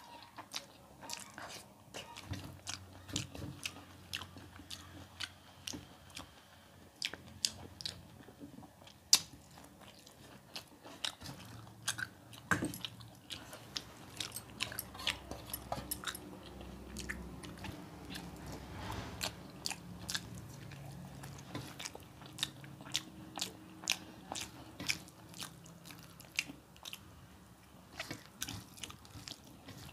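Close-up mukbang eating sounds: chewing and wet lip-smacking as rice and dal are eaten by hand, with many sharp mouth clicks at an uneven pace.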